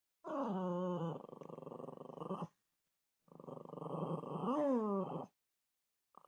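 A dog grumbling and whining in two long drawn-out calls, its pitch wavering and swooping up and down.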